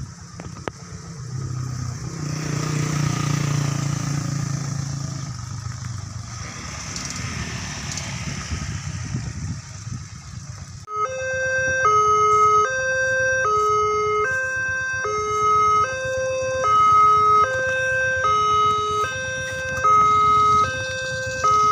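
Road traffic running past a level crossing. About eleven seconds in, the crossing's electronic warning alarm starts abruptly: a loud two-tone signal alternating high and low about every 0.7 seconds, the signal that a train is approaching and the barrier gates are closing.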